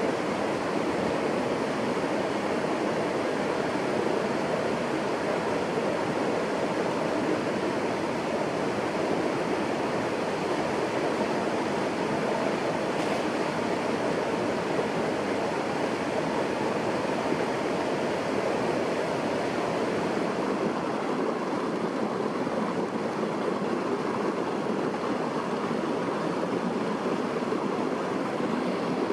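Steady, even rush of water that stays unchanged throughout.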